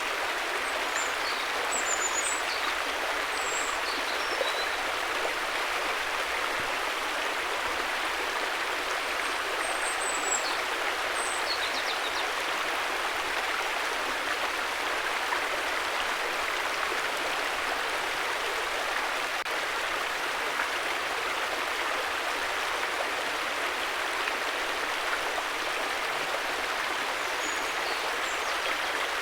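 River water flowing, a steady rushing with no breaks. A few faint high chirps come through about a second in, around ten seconds in and near the end.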